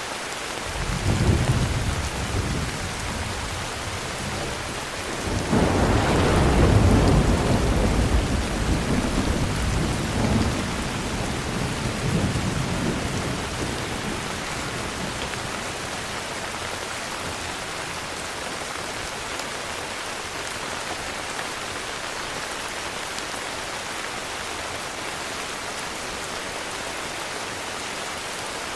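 Heavy rain falling steadily, with thunder: a short rumble about a second in, then a louder, longer roll of thunder a few seconds later that slowly dies away, leaving the rain alone.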